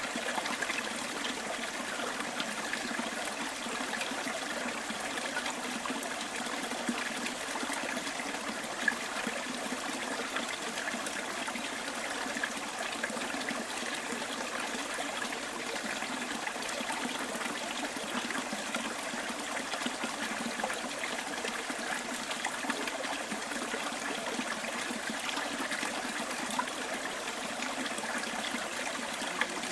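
Small stream trickling and babbling over stones, a steady, even rush of water, with a few brief louder ticks.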